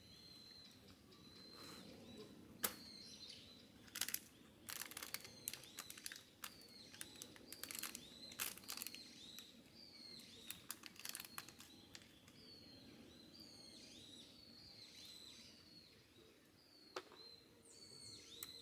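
Forest birds calling faintly: repeated short, high chirps throughout, with a busy run of sharp chips or clicks from about three seconds in until near the middle.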